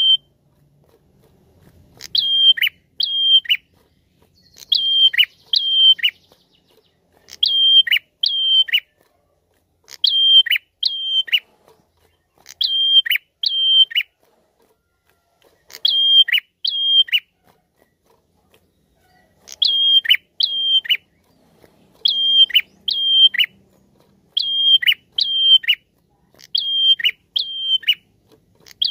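A caged prenjak calling a repeated two-note phrase about every two and a half seconds, with a longer pause near the middle. Each note is a sharp high chip that settles on a brief steady whistle, then drops off.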